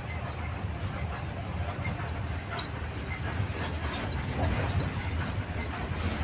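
Steady road and engine rumble inside the cabin of a closed, air-conditioned vehicle on the move.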